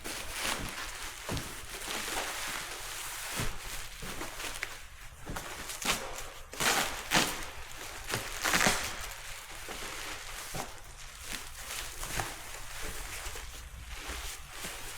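Packing paper and bubble wrap rustling and crinkling as a wrapped carbon-fibre fender is handled, with louder crinkles twice around the middle.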